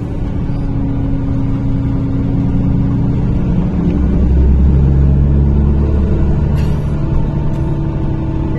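NefAZ-5299 city bus heard from inside the cabin while driving: a steady engine and drivetrain drone with several held tones that step in pitch, loudest from about four to six seconds in.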